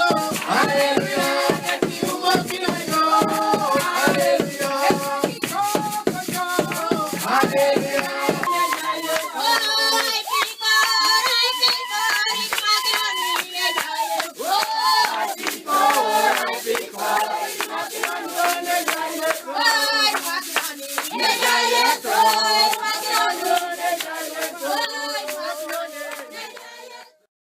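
A church congregation singing together in unison, with steady rhythmic hand-clapping and a shaker rattle. A low beat underneath drops out about eight seconds in, and the whole sound cuts off abruptly at the very end.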